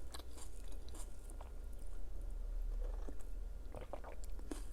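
Close-miked chewing of food, with scattered small crunches and clicks.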